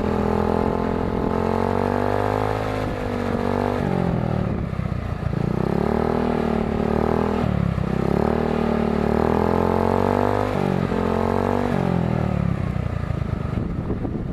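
GY6 150cc single-cylinder four-stroke scooter engine, through an aftermarket performance exhaust, revved repeatedly. It rises, holds and drops about four times, with a couple of quick blips near the end, then settles back toward idle. The sudden drops in revs are what the owner calls bogging down, which he puts down to the new air filter.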